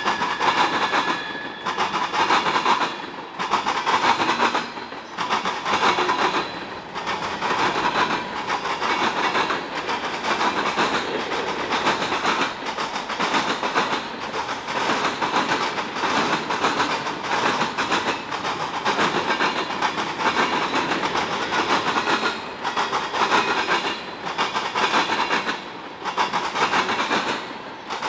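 Freight car wheels pounding over a railroad diamond crossing: a continuous run of heavy, irregular clacks as the cars of a long freight train roll through.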